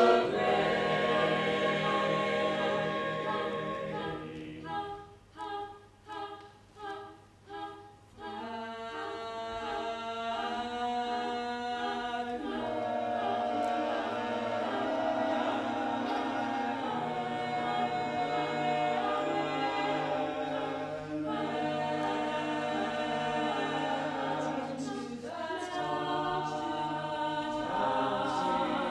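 Choir singing unaccompanied in harmony: a held chord, then a run of short, separate notes about five to eight seconds in, then long sustained chords.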